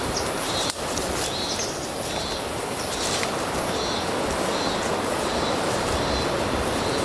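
A steady rushing noise, with small birds chirping over it and a single click about a second in.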